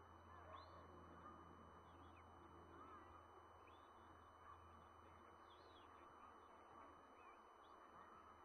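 Near silence: faint outdoor ambience with a steady low hum and scattered faint bird chirps.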